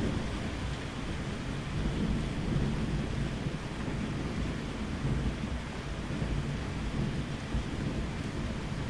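Steady rain with a low, rolling rumble of thunder underneath that swells and fades.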